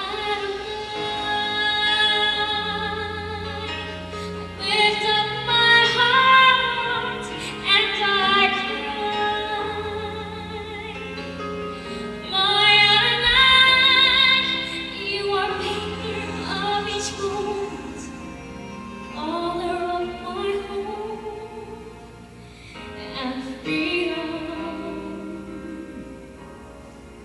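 A woman's solo voice singing a slow worship song in long held phrases, over sustained low accompaniment notes.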